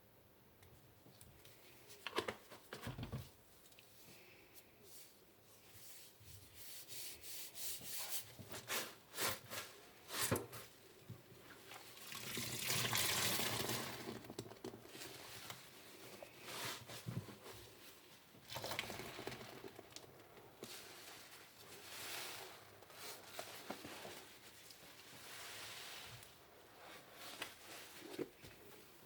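A wet car sponge being squeezed and rubbed in soapy water, with water sloshing and dripping. Scattered sharp clicks and knocks, and a longer hissing rush of water about twelve seconds in.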